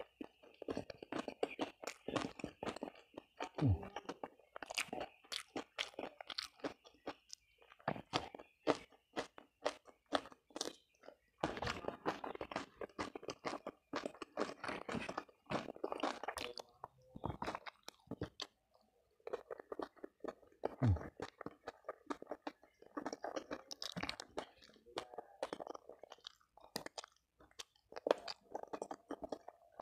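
A person chewing food with frequent crisp crunches, picked up close by clip-on microphones, with a few short pauses between mouthfuls.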